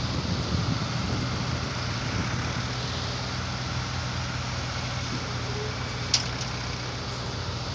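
Diesel engine of heavy earthmoving machinery running steadily with a low hum, with one sharp click about six seconds in.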